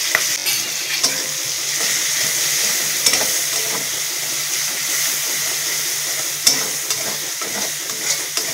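Spice paste frying in hot oil in an aluminium kadai, with a steady sizzle as a flat metal spatula stirs and scrapes it. A few sharp clicks of the spatula against the pan come through, about 1, 3, 6.5 and 8 seconds in.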